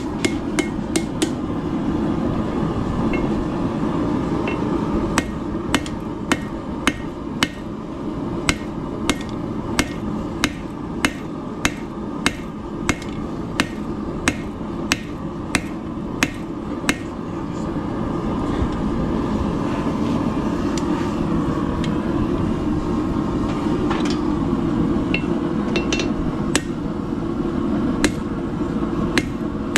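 Hand hammer striking hot steel on an anvil, straightening a forged holdfast: a steady run of ringing blows, one to two a second, for about twelve seconds, then only scattered blows. A continuous low rushing noise runs underneath.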